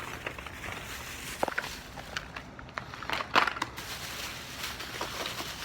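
Rustling with scattered clicks and knocks as objects are handled and set down, the loudest knock about three and a half seconds in.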